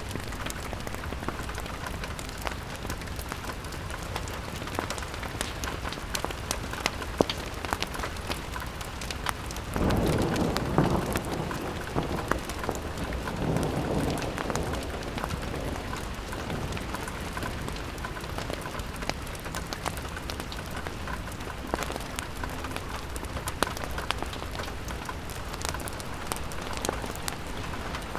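Steady rain pattering on window glass, full of small sharp drop ticks. About ten seconds in, a louder low swell rises and fades over several seconds, like a distant thunder roll or a gust of wind.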